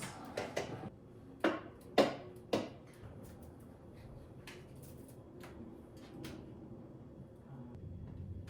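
A series of sharp plastic clicks and knocks, loudest in the first three seconds and then fainter ticks, as a cordless vacuum's battery and charger are handled and plugged in to charge.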